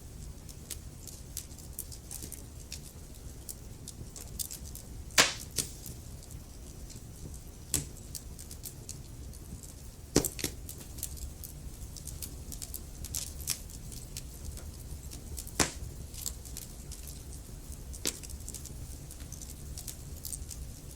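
Log fire in a fireplace crackling: a constant patter of small crackles over a low steady rumble of the flames, with a few louder sharp pops from the burning wood, the biggest about five seconds in and again near ten seconds.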